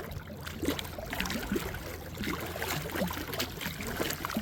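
Water splashing and trickling lightly around a small fishing boat, in many small irregular splashes over a low steady hum.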